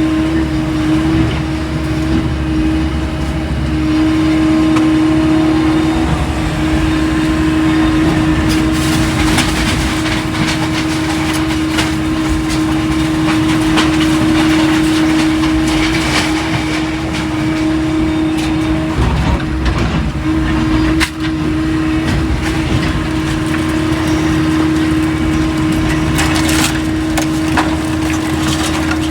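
Heavy machinery engine running steadily under load, with scattered cracks and crunches of debris being broken and moved.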